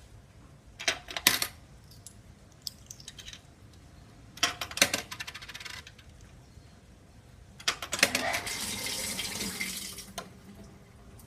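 Coins being dropped into the coin slot of an old SANYO ASW-40C1 coin-operated washing machine and clattering through its coin mechanism, in three separate bursts of clicks. The last burst is followed by about two seconds of steady hiss that cuts off suddenly.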